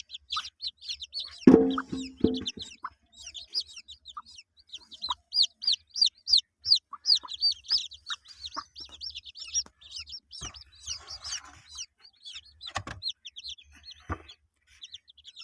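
Day-old chicks peeping rapidly and continuously in high, short notes, with a hen giving a low clucking call about one and a half seconds in. A few soft knocks come near the end.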